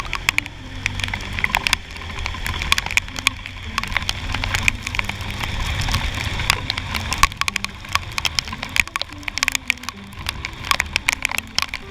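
Raindrops hitting a helmet-mounted camera in many quick, irregular clicks, over the low steady hum of a Honda Click 125i scooter's single-cylinder engine under way.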